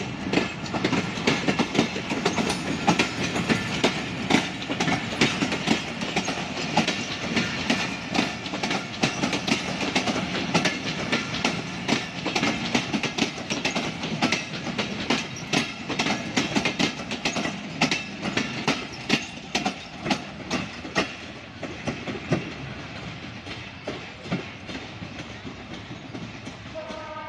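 Passenger coaches of a Bangladesh Railway express clattering over rail joints: a rapid, uneven run of wheel clicks over a steady rumble, fading over the last few seconds as the train draws away.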